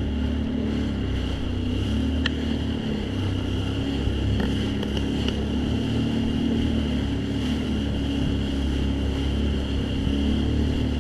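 Jet ski engine running at a steady speed, an even low hum with a few faint clicks.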